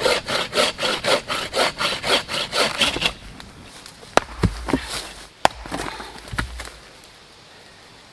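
Hand saw cutting through wood in quick back-and-forth strokes, about four a second, stopping about three seconds in. A few sharp snaps and knocks follow.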